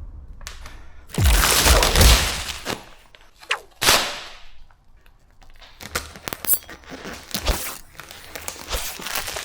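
Vinyl wrap film being handled on a car bonnet: a long rustling swish about a second in, a shorter one a little later, then scattered sharp clicks and taps.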